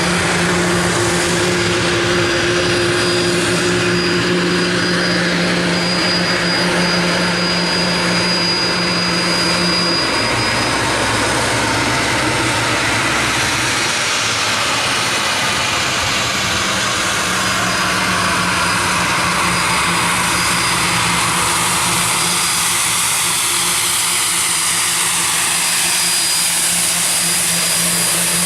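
Aircraft engines running loud and steady, with a thin high whine over a low hum and slow sweeps in pitch.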